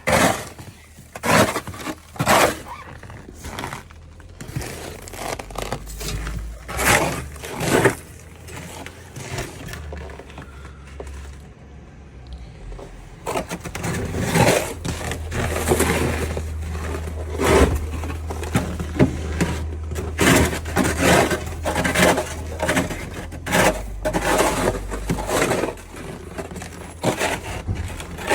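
Snow shovel scraping and crunching through snow in repeated strokes, with a lull in the middle before the strokes come thick again.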